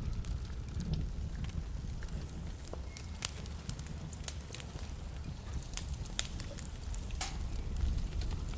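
Wood fire burning in a fireplace: a steady low rumble of flames with scattered sharp crackles and pops from the burning logs, two of them louder, about three and seven seconds in.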